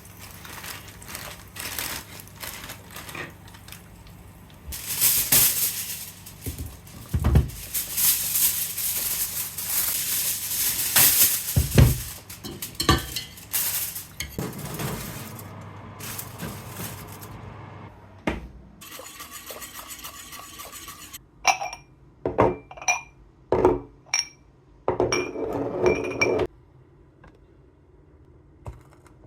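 Dishes and cutlery being handled: a long stretch of clattering and scraping with a few sharp knocks, then a series of short ringing clinks of crockery near the end.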